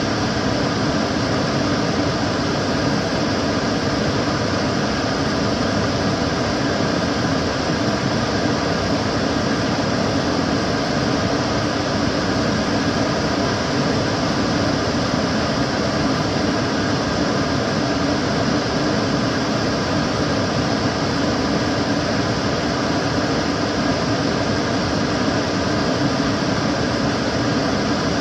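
Kitchen cooker hood extractor fan running steadily: an even rushing of air with a low hum and a few faint steady tones, unchanging throughout.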